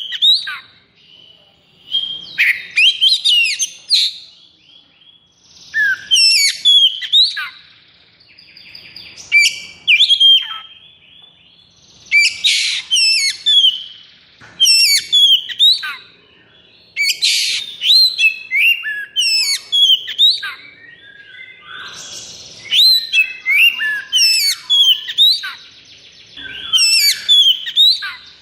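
Oriental magpie-robin (kacer) singing loud, rapid phrases of sweeping whistles mixed with harsh rasps, in bursts of one to two seconds with short pauses between them. This is the fast, agitated 'konslet' fighting song of a highly aroused male.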